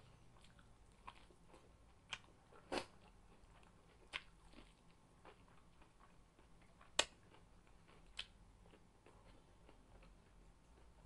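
Someone biting and chewing crispy fried chicken at close range: scattered sharp crunches and clicks, the loudest about seven seconds in, over soft chewing.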